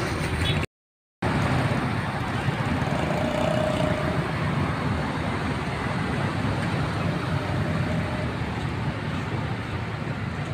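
Steady running of vehicle engines with traffic noise, broken by a sudden half-second dropout to silence about a second in.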